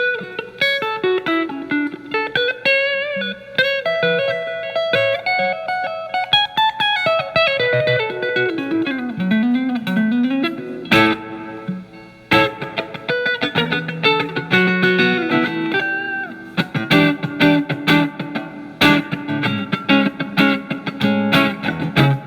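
Telecaster with single-coil pickups played through a Marshall MG15FX amp on its crunch channel, guitar volume rolled back to clean up the drive. It plays a single-note lead line with bends and slides, stops briefly about 12 seconds in, then plays choppy chord strums.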